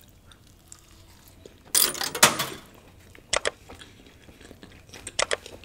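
A person chewing a mouthful of stuffed kulcha flatbread close to the microphone: a loud crunchy stretch about two seconds in, then a few short sharp mouth clicks.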